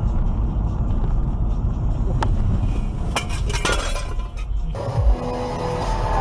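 Car collision heard from inside a vehicle: steady road rumble, then a sharp knock about two seconds in and a burst of crashes and breaking glass about three seconds in. Near the end, music and noisier sound take over.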